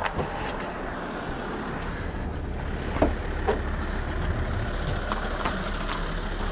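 A car engine running steadily nearby, a low rumble with a couple of short clicks about three seconds in.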